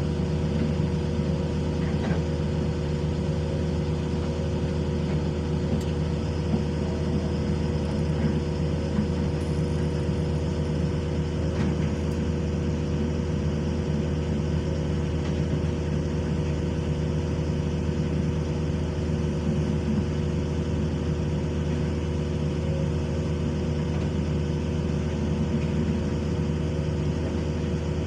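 Diesel engine of heavy earthmoving equipment running steadily at an even speed, with no revving.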